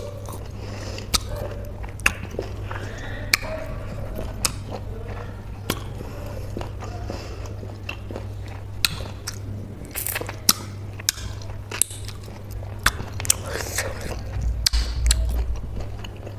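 Close-miked chewing of juicy peeled citrus fruit: wet mouth sounds with frequent sharp lip smacks and clicks, over a low steady hum.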